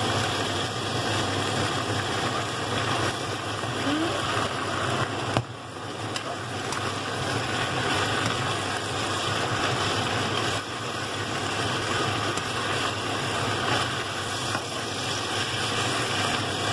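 Roasted pork and Chinese kale sizzling as they are stir-fried in a nonstick frying pan, a steady frying hiss that dips briefly about five seconds in, with a steady low hum underneath.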